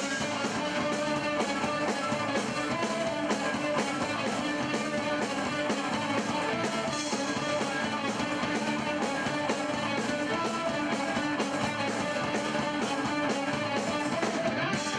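Rock band playing a song: strummed guitars over a drum kit with a steady beat.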